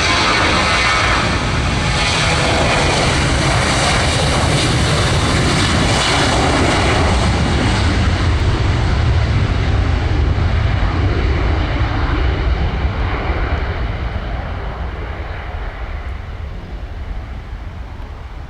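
Jet airliner's engines at takeoff power, a loud roar as the aircraft passes close. After about ten seconds it starts to fade as the plane climbs away: the high hiss dies off first, leaving a low rumble.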